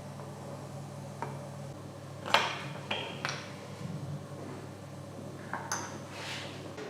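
Metal parts and tools clinking as they are handled, with a sharp metallic knock about two seconds in, followed by a few lighter ringing clinks and two more near the end, over a faint low hum.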